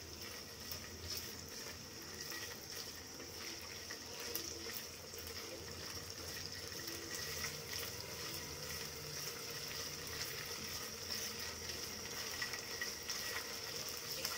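Paneer cubes sizzling in hot ghee in a non-stick kadai as they are stirred with a silicone spatula: a steady frying hiss with small crackles throughout.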